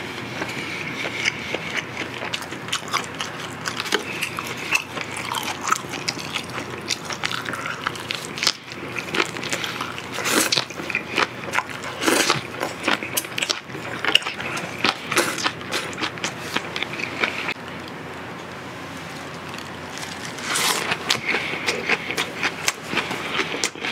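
A man eating marinated pork ribs close to the microphone: wet chewing and lip-smacking, a rapid run of short smacks and clicks that eases off briefly a little past the middle.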